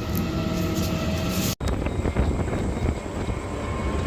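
Garbage truck's diesel engine running steadily, a low rumble heard from the cab, with a momentary break in the sound about a second and a half in.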